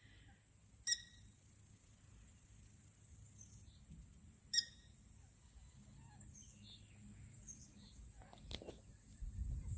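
Marshland ambience: a steady high insect buzz with two short, sharp bird calls about a second in and after about four and a half seconds, and a few fainter chirps later.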